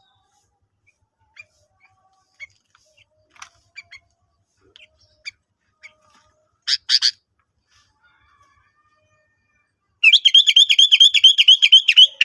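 Sooty-headed bulbul (kutilang) calling: scattered short chirps, a louder double note about seven seconds in, then a loud, rapid trill of about six notes a second in the last two seconds, the kind of lovebird-like phrase such a bird is trained to copy.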